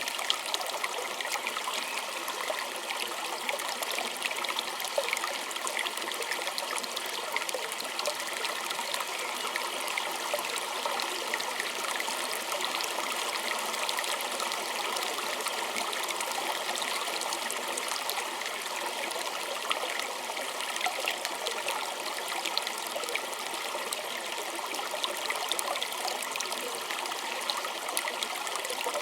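A small stream trickling and babbling over stones, a steady bright splashing with many tiny droplet crackles and no change in level.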